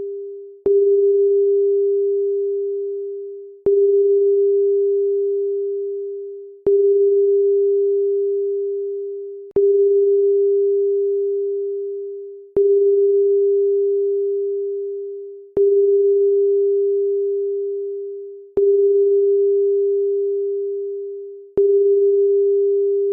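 A loud, pure, steady tone a little under 400 Hz, repeating about every three seconds: each one starts suddenly with a click and fades away before the next.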